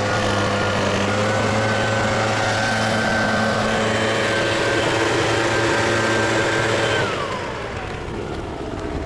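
A small engine running steadily at high speed, then throttled down about seven seconds in, its pitch falling away.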